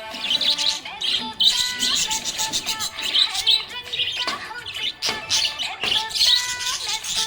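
Budgerigars chirping and warbling happily in a rapid, unbroken run of short high chirps mixed with brief held notes.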